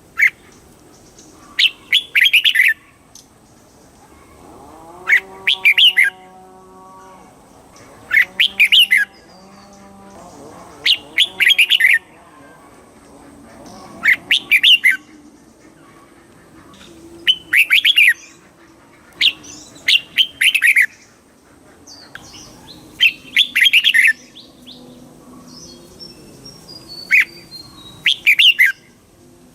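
Red-whiskered bulbul singing: short, loud, bright phrases repeated about every three seconds.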